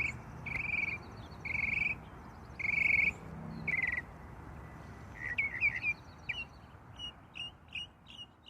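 Birds calling: a series of short trilled calls about once a second, then from about five seconds in, quicker, varied short chirps and whistles.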